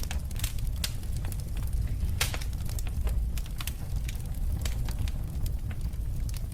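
Wood fire burning in a fireplace: a steady low rumble of flames under irregular sharp crackles and pops, one louder pop about two seconds in.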